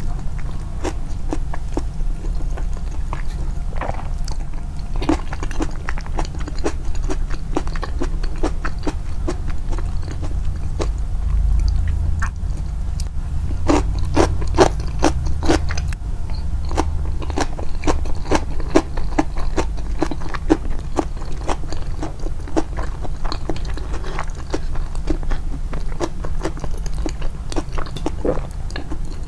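Close-up chewing and crisp crunching of food, many sharp irregular bites, turned up in editing to stand out, over a low steady hum.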